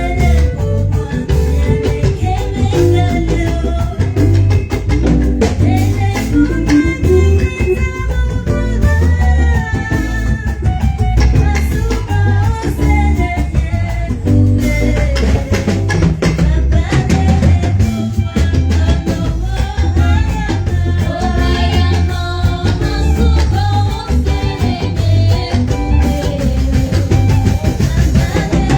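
Live band music: voices singing over a drum kit, bass and guitar with a steady beat.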